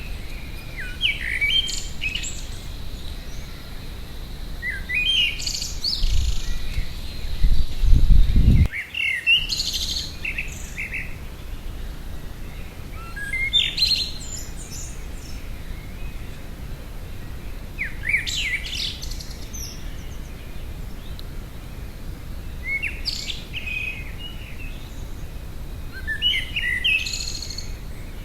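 A songbird singing short, varied phrases of about a second, one every four to five seconds. A loud low rumble builds about a quarter of the way in and cuts off suddenly.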